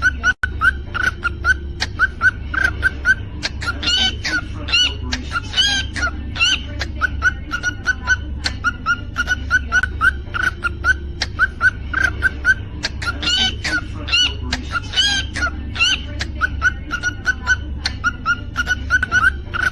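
Cockatiel chirping: a steady run of short rising chirps, about three a second, broken twice by clusters of louder, higher rising whistles.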